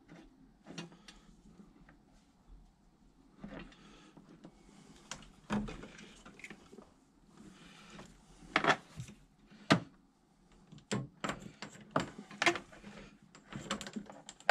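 Irregular knocks, clunks and rattles of parts and tools being handled during the heater fitting, with some rustling between them. The two loudest knocks come about a second apart, just past the middle.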